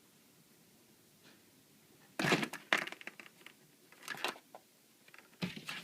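A cat scrambling and pouncing on a hard floor while chasing a laser dot: after a quiet start, a cluster of short scuffling knocks about two seconds in, another brief flurry around four seconds, and more near the end.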